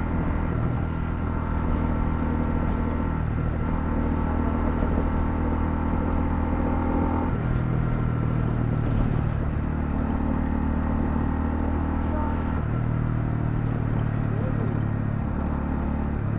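Honda CL250 single-cylinder motorcycle engine running under way, its note shifting up and down in steps several times as engine speed changes.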